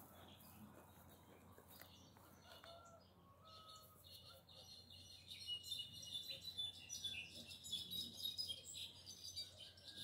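Wild birds singing in woodland. A few faint short whistled notes come first, then from about halfway through a busy run of quick, high chirps and trills takes over as the loudest sound.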